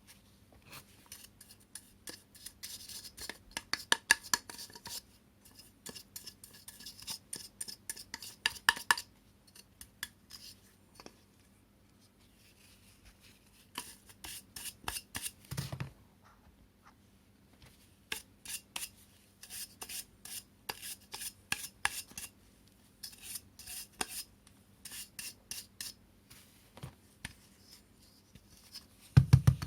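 Hard plastic vacuum-cleaner parts being handled: runs of quick clicks, scrapes and rubbing with short pauses, a dull knock about halfway through and two louder knocks at the very end.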